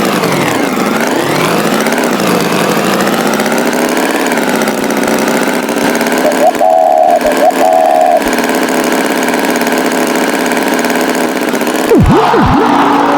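Cartoon tractor engine running, its pitch swinging up and down, with a brief high warbling tone about halfway through and quick sweeping sounds near the end.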